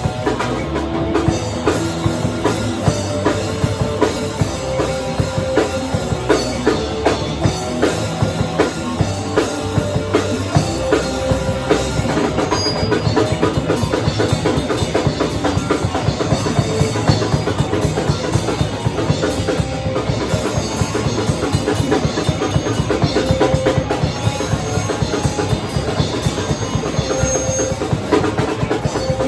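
Live rock band playing loud, led by a drum kit with hard kick and snare hits. The beat is steady at first, then the drumming grows denser and faster about halfway through.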